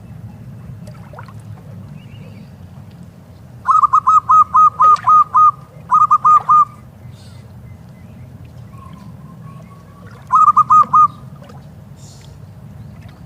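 Zebra dove (perkutut) calling: a quick run of about eight short, clipped coos, a brief run of four, then another four near the end. A steady low rumble runs underneath.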